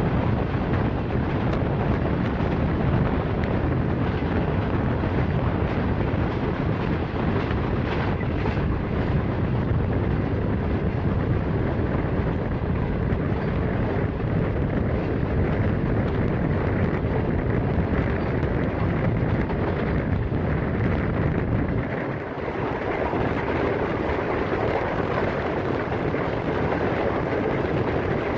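Passenger train running at speed: steady noise of wheels on rail and rushing air, with a slight dip in level about three quarters of the way through.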